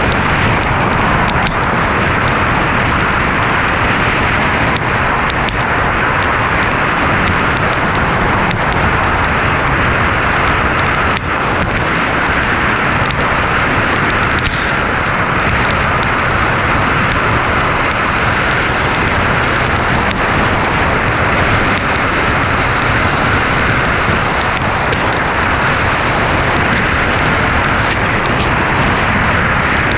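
Steady, loud rushing noise of heavy hurricane rain and wind on a moving car, with tyres on a soaked road.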